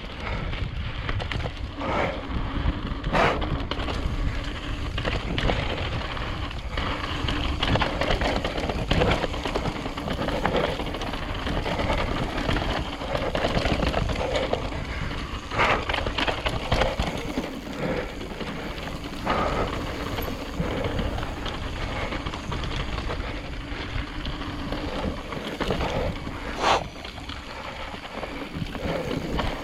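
Mountain bike riding fast down a dirt trail: continuous tyre and rattle noise with wind buffeting the microphone, broken by knocks from bumps and rocks, the hardest about three seconds in, midway and near the end.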